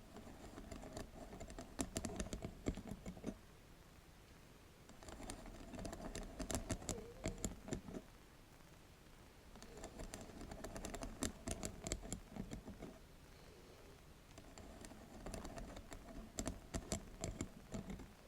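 Rapid tapping and scratching on a bamboo mat: four bursts of quick, dry clicks, each a few seconds long, with short pauses between.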